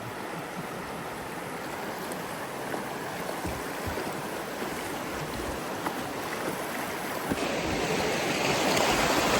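Rushing water, a steady hiss of stream or falls. It gets suddenly louder and brighter about seven seconds in.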